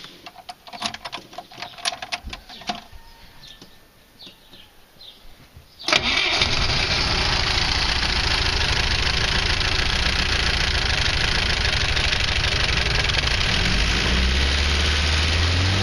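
Toyota RAV4 engine being started: a few light clicks, then about six seconds in it catches at once and runs at a steady idle.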